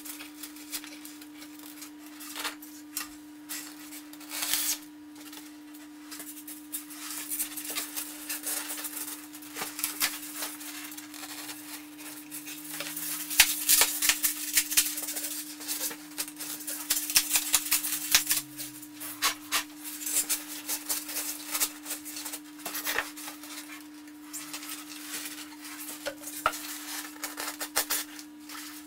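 Irregular rustling, scraping and clicking of styrofoam blocks being handled and fitted together, busiest around the middle, over a steady low hum.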